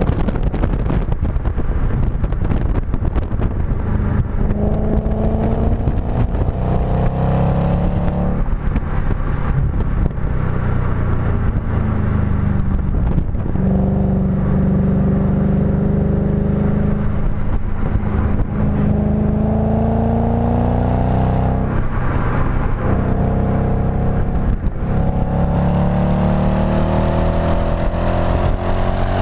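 B7 Audi S4's 4.2-litre V8 heard through its STaSIS aftermarket exhaust under hard driving. The revs climb repeatedly for several seconds at a time, each climb cut off by an upshift or a lift, with a steady rumble of wind and road noise underneath.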